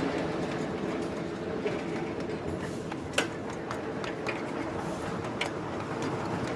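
Miniature ride-on live-steam railway train running along the track: a steady running noise with scattered sharp clicks from the wheels and rails, the loudest about three seconds in.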